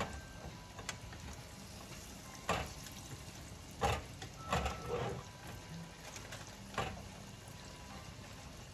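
Breaded chicken frying in oil in a skillet, a steady sizzle, with a few sharp clinks of metal tongs and utensils against the pan and bowl.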